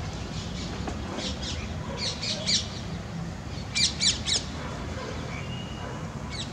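Bird squawks: short, high, scratchy calls in quick runs of two or three, loudest about two and four seconds in, over a steady low background hum.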